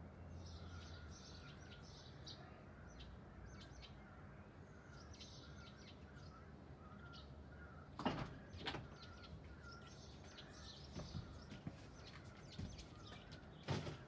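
Faint songbirds chirping and calling outdoors, short high notes coming in scattered bursts. Two sharp knocks come about eight seconds in and another just before the end; these are the loudest sounds.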